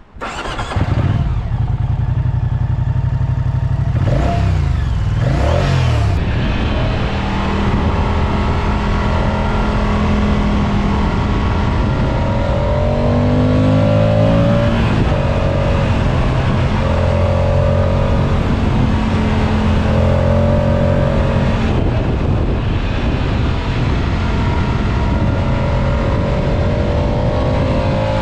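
Moto Guzzi Stelvio's transverse V-twin engine, heard raw. It comes in abruptly, is blipped twice about four to six seconds in, then runs under load as the bike rides off, its pitch rising in repeated sweeps as it accelerates through the gears.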